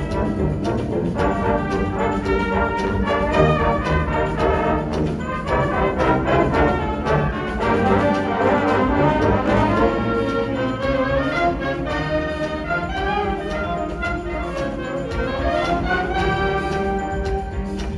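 Indoor winds ensemble playing a brass-heavy passage, with many sustained and moving notes.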